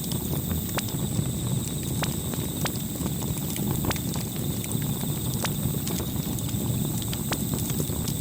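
Campfire burning: irregular sharp crackles and pops from the burning wood over a low, steady rumble of the flames.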